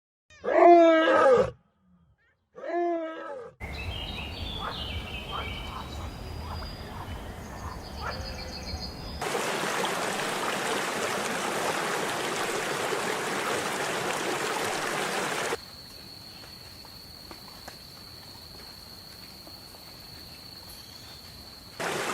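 A big cat roars twice, each a loud pitched call that falls at its end, the second shorter. A stretch of outdoor ambience follows, with high chirps, then an even rushing noise, then a quiet stretch with a single steady high tone, and the rushing noise returns near the end.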